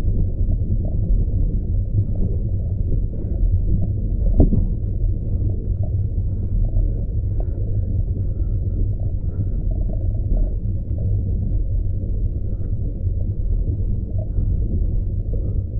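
Muffled, steady low rumble of wind and road noise on the microphone while riding a bicycle, with a single sharp knock about four seconds in.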